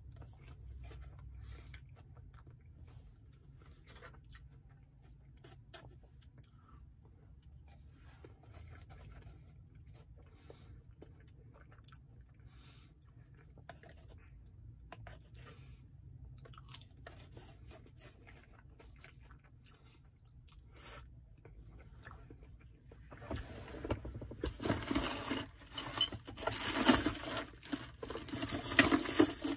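Quiet chewing and mouth sounds of someone eating chili cheese fries by hand, with small clicks from the paperboard fry box. Near the end the box is handled, with much louder rustling and scraping.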